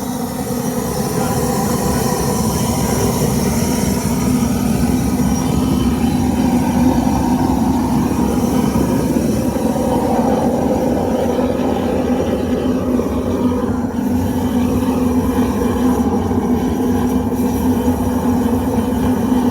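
Propane burner firing into a custom-built casting furnace: a steady rush of flame with a low, even hum running through it.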